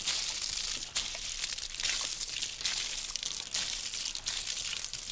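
Steady crackling, rustling noise thick with small scattered clicks, starting abruptly.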